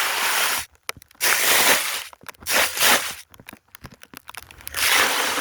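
Snow crunching in four rough, noisy bursts about a second apart, with small clicks and crackles between them.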